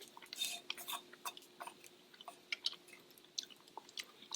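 A person chewing a mouthful of pan-fried soybean-and-whitebait patty close to the microphone: soft, irregular small clicks.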